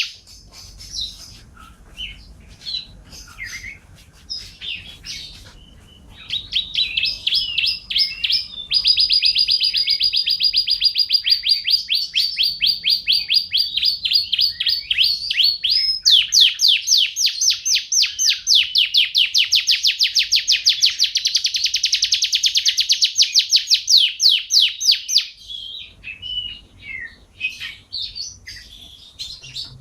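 A songbird singing: scattered high chirps, then long, very fast trills of rapidly repeated notes lasting many seconds, with a brief break partway, then scattered chirps again near the end.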